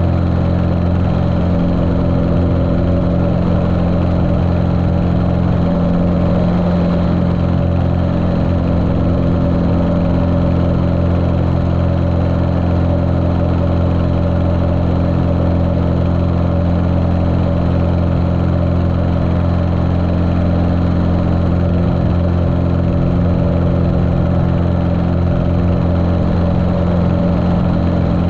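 Cessna 150L's Continental O-200 four-cylinder air-cooled engine running steadily at a constant pitch, heard muffled through a GoPro's waterproof case.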